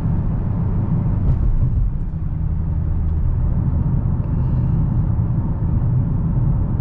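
Steady low rumble of a 2022 Dodge Challenger Hellcat cruising at road speed during its engine break-in, its supercharged 6.2-litre V8 and tyre noise heard from inside the cabin.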